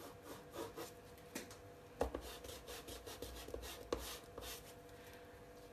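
Pencil scratching across paper in a run of short strokes as a sketch is drawn, with a couple of sharper knocks about two and four seconds in.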